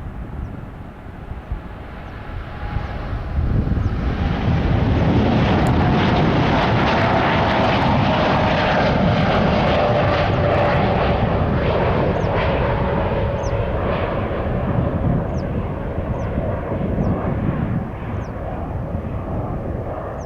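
Jet airliner's engines on takeoff, swelling to a loud, steady roar about four seconds in, with a whining tone that slowly drops in pitch as the aircraft passes, easing off near the end.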